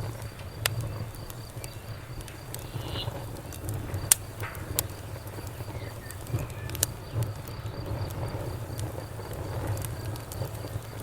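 Campfire burning, the wood crackling with irregular sharp pops, the loudest about four seconds in, over a low steady rumble. An insect, such as a cricket, keeps up a steady pulsing chirp.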